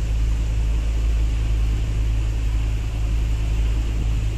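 Steady low rumble of a running vehicle, with a constant hum that does not change in pitch.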